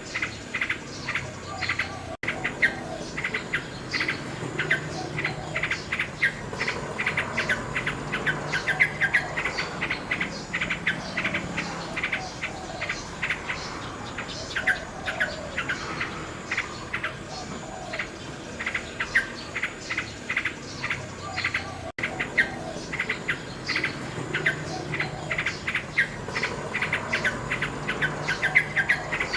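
Nightingale singing a fast, varied run of chirps and trills, with a steady insect chirring behind it. The sound cuts out for an instant twice, about twenty seconds apart.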